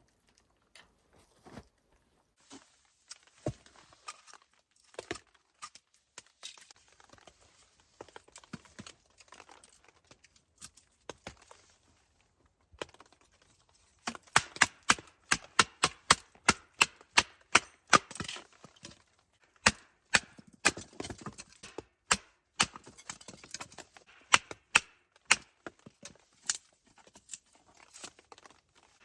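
Sharp cracks and knocks of wood: scattered at first, then coming quickly, about three a second, from about halfway through.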